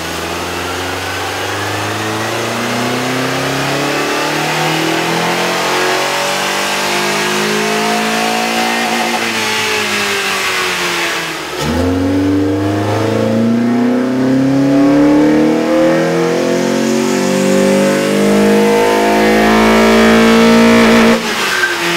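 Honda Accord 2.4-litre four-cylinder engine revving on a chassis dyno, twice. The first run, on the stock intake, climbs in pitch for about nine seconds and then falls away. After a sudden cut near the middle, a second run with a K&N cold air intake fitted climbs steadily, gets louder, and cuts off abruptly near the end.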